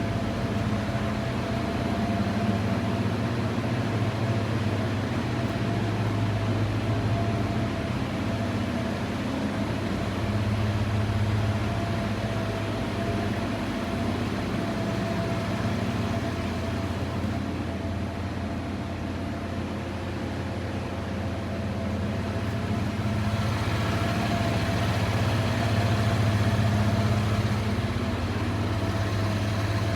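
Pickup truck engine idling: a steady low hum with a faint constant whine above it. More hiss comes in about two-thirds of the way through.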